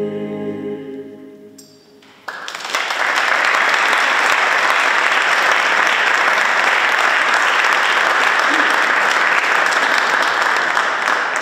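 Mixed choir's final chord dying away in a reverberant cathedral, then audience applause breaking out about two seconds in and continuing steadily.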